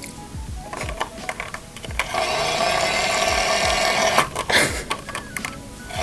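Small electric motor of a toy mini washing machine running in fits with a steady whine, dropping out and picking up again, with clicks and knocks from the drum. It is straining under a large makeup sponge too heavy for it.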